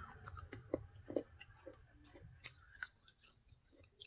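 Close-miked chewing of baked clay pot pieces: soft, irregular crunches and clicks.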